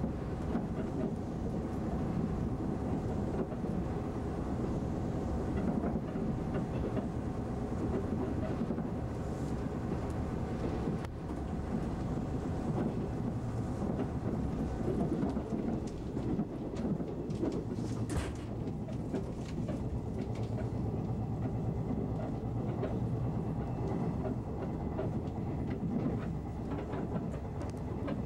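381-series electric train running at speed, heard from inside the passenger car: a steady rumble of wheels on the rails with rapid clicking over rail joints and points, and one sharper click about two-thirds of the way through.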